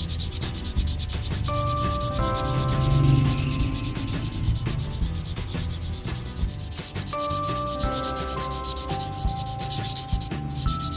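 Steady abrasive sanding, a rasping rub that runs without a break, under a light melodic background music track.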